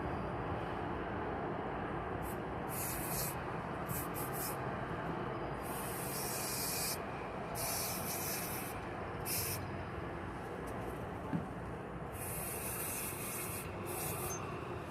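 Aerosol lubricant being sprayed onto accordion shutter wheels in about seven short hissing bursts, some under a second and some over a second long, over a steady low background rumble.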